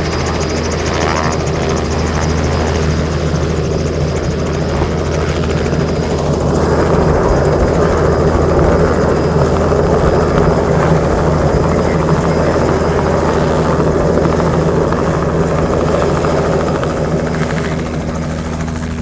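Helicopter running with a steady low rotor drone, growing louder from about seven seconds in and easing slightly near the end.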